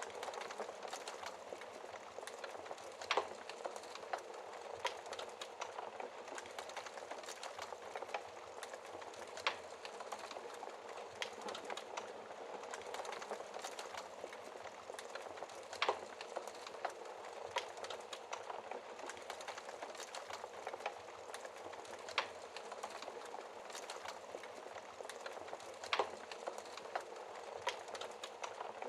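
Wood fire crackling in a fireplace: a steady hiss of burning with irregular sharp pops, a few louder snaps every several seconds.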